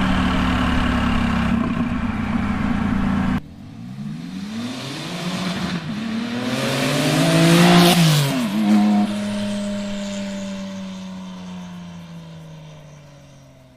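Straight-piped 2001 Porsche 996 911 Turbo's twin-turbo flat-six running steadily, then a fly-by. The car approaches under acceleration, the exhaust note rising in pitch and level. It passes about eight seconds in with a sharp drop in pitch, then fades away.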